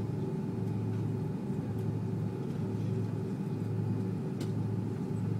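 Steady cabin drone inside an Airbus A330-300 taxiing after landing: a low hum with faint steady whining tones from the idling engines and cabin air, and a few light ticks.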